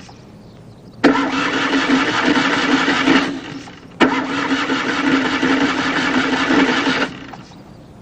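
A car engine being cranked to start, in two tries of about two to three seconds each, each beginning abruptly and then dying away.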